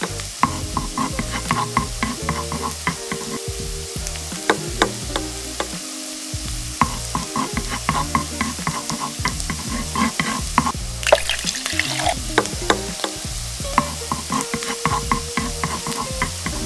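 Food frying in hot oil in a pan, sizzling while it is stirred, with frequent clicks of the utensil against the pan.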